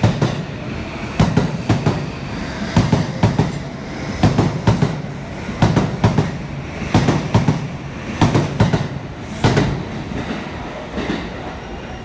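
JR East E235 series Yamanote Line electric train pulling out and passing close by, its wheels clicking over rail joints in clusters about every second and a half as each car goes past, over a steady rumble. The clicking thins out near the end as the last car passes.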